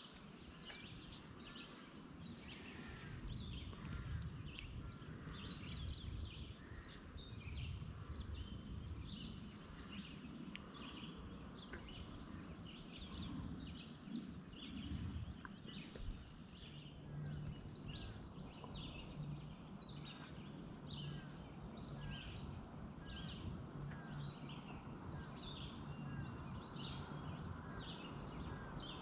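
Songbirds chirping and singing from the woods, many short high calls with a few quick falling whistles, over a low steady rumble of background noise.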